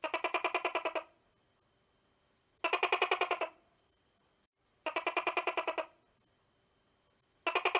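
A continuous high-pitched insect trill. Over it, a lower, rapidly pulsed animal call of about a second repeats four times, roughly every two and a half seconds.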